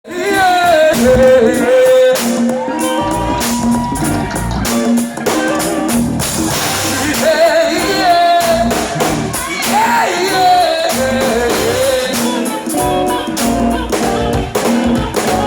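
A band playing with a lead singer: a sung melody with long held and bending notes over drums and bass, with a steady beat.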